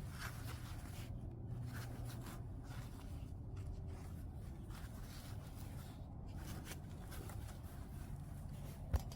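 White chert being worked by hand in flintknapping: soft scraping strokes about once a second, with one sharp knock just before the end. A low steady hum lies under it all.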